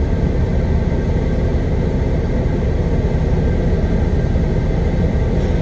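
Steady low rumble of a semi truck's diesel engine running.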